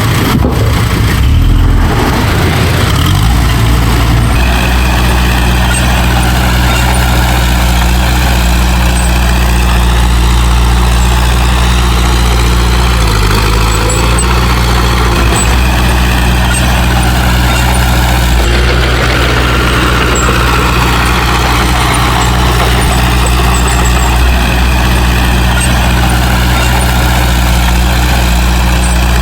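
Heavy diesel engine of earth-moving equipment running steadily. It settles into an even drone about four seconds in, with a higher whine that slowly rises and falls.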